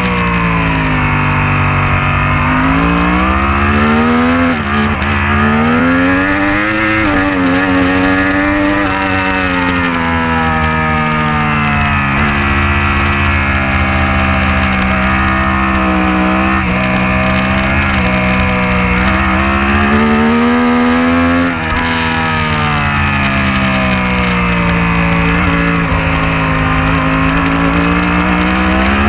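Superbike race motorcycle engine at racing speed, its pitch climbing and falling over and over as the throttle and gears are worked, with two brief drops in level, about four seconds in and again near twenty-two seconds.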